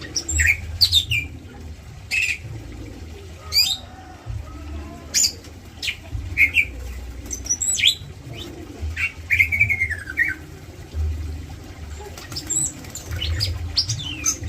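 Green leafbirds (cucak ijo) giving short, sharp chirps and calls, one longer wavering call about nine seconds in, with wing flapping, over a low rumble.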